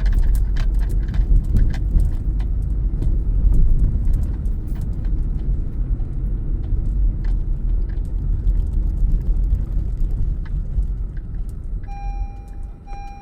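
Low rumble of a car driving, heard from inside the cabin, with small knocks and rattles. Near the end a repeating beeping chime starts: the seatbelt reminder.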